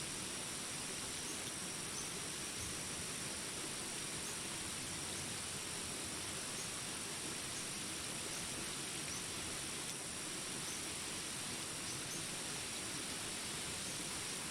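Jungle ambience: a steady hiss of falling rain with insects droning in continuous high tones, and faint short high chirps recurring every second or so.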